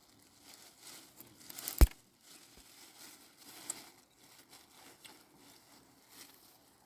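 Irregular rustling and crinkling handling noise, with one sharp knock a little under two seconds in.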